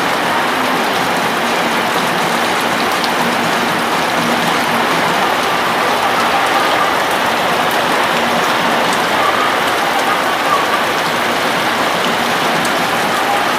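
Steady rain falling, a dense even hiss of drops that holds without letup.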